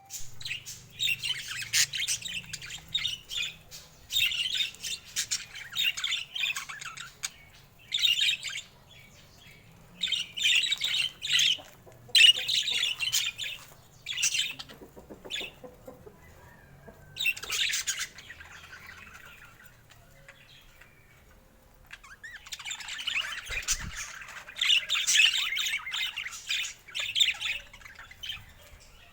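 Budgerigars chattering and warbling: busy, high-pitched chirps and squawks in bouts of a few seconds with short pauses between, and a quieter lull about two-thirds of the way through.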